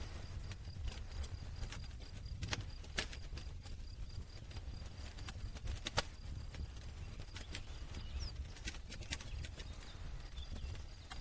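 Wood campfire crackling: irregular sharp pops and snaps over a low rumble, with one louder pop about halfway through.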